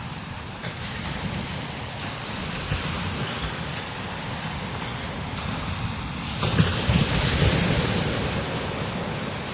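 Strong desert wind blowing over sand dunes in gusts, with low rumbling thumps where it buffets the microphone. A stronger gust builds about six and a half seconds in.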